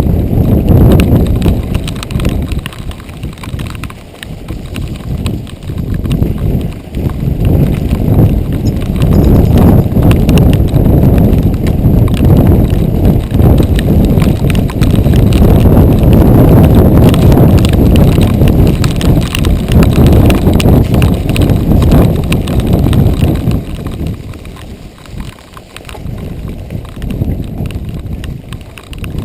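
Giant XTC 3 mountain bike rattling and clattering at speed over a rough dirt trail: a heavy rumble full of rapid knocks. It eases off near the end.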